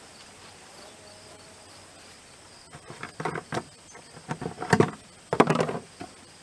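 Insects trilling steadily in the background. About three seconds in, a run of irregular scuffs and knocks starts, loudest near the end.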